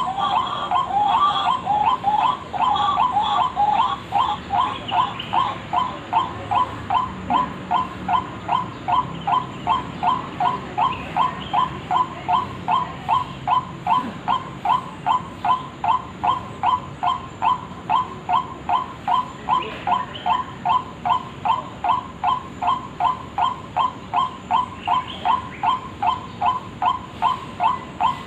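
White-breasted waterhen (ruak-ruak) call played as a bird-trapping lure: one short note repeated very evenly, about two to three times a second. It is louder and more jumbled for the first few seconds.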